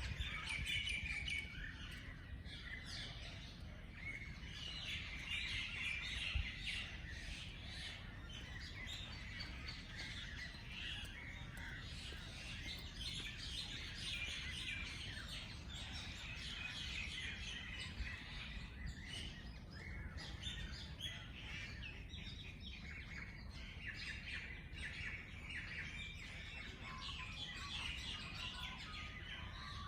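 Many small songbirds chirping and twittering together in a dense, continuous chorus of short high chirps, over a low steady rumble.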